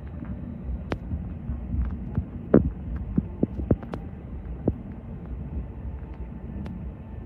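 Low steady rumble inside an Airbus A321neo cabin while taxiing, with half a dozen irregular dull thumps and knocks in the middle.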